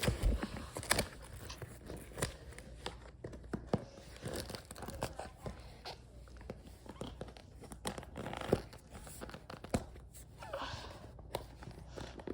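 Rustling and crinkling with scattered sharp clicks and knocks as a dirt bike boot is handled and pulled on.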